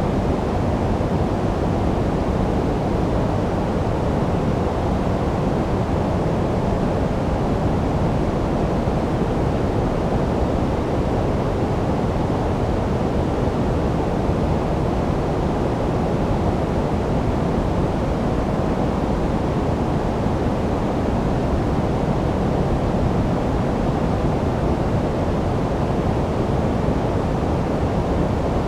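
Steady generated sleep noise with no change or events, a deep, even rush whose strength sits in the low end and fades toward the top, closer to pink or brown noise than flat white noise.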